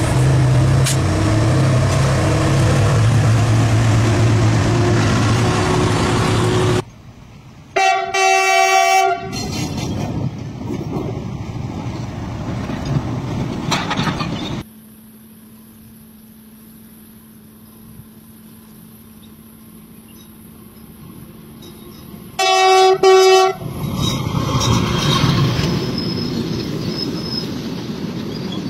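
Diesel locomotive of a goods train running with a steady low drone as it pulls in. Later a train horn sounds in two short blasts, once about eight seconds in and again about twenty-three seconds in, with the train rolling past in between and after.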